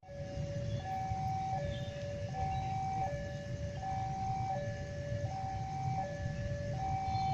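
Railway level-crossing warning alarm sounding a two-tone signal, a lower and a higher tone taking turns about every three quarters of a second, over a steady low rumble.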